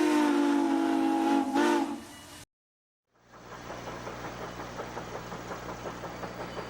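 A steam locomotive whistle blowing one long steady note, which dips briefly in pitch and cuts off about two seconds in. After a short silence, a quieter steady machine running sound with a quick regular pulse begins.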